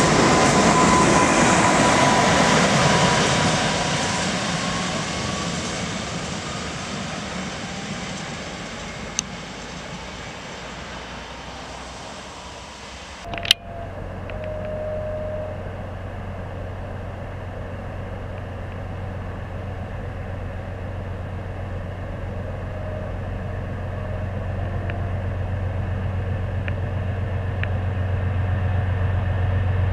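Electric multiple unit passing and pulling away, its running noise and a slightly falling whine fading over about ten seconds. After an abrupt cut, an approaching locomotive's low, steady hum grows gradually louder.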